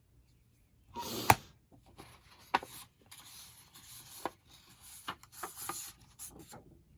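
Paper or book board being handled and rubbed on a work table during bookbinding, with a rustle about a second in and several sharp taps and knocks among steady scraping.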